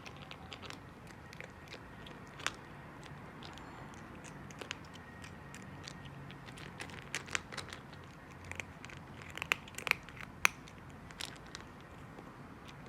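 Calico cat eating, with irregular crunching chews and sharp clicks, coming thicker and louder in the second half.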